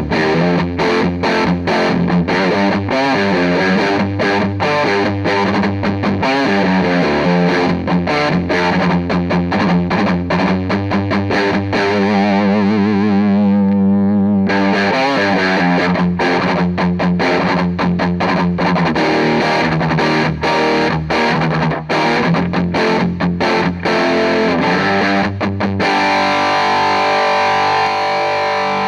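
Electric guitar played through an EarthQuaker Devices White Light hard-clipping overdrive pedal with the gain at maximum and the comp switch in minus, giving a heavily distorted tone. The playing is fast, choppy riffing, with a held note wavering in vibrato about halfway through, and a chord left ringing near the end.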